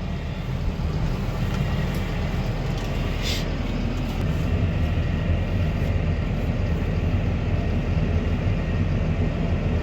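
Farm diesel machinery, a tractor or skid steer, running steadily with an even low rumble; a short hiss sounds about three seconds in.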